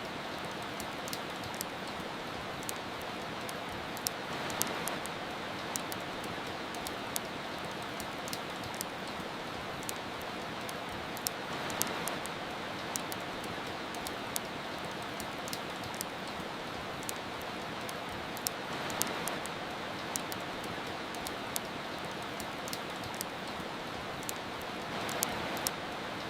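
Steady rain with frequent, irregular sharp crackles from a wood fire. The rain swells briefly about every seven seconds.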